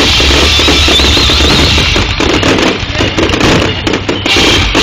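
Aerial fireworks bursting in a loud, dense barrage, with many overlapping bangs and crackles coming thickest from about halfway through.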